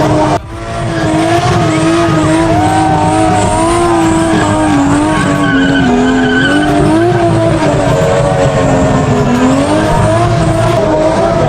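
A car drifting: continuous tyre squeal over the running engine, its pitch wavering up and down, with a brief dip in level about half a second in.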